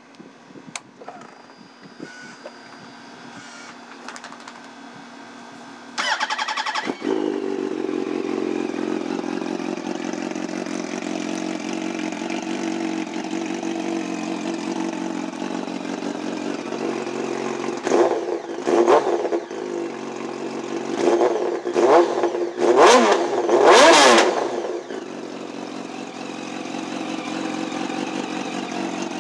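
The 2007 Yamaha R1's inline-four, fitted with de-baffled exhaust cans (homemade straight pipes with the catalytic converter still in place), cranks and starts about six seconds in, then idles. Around two-thirds of the way through it is revved in several short blips before settling back to idle.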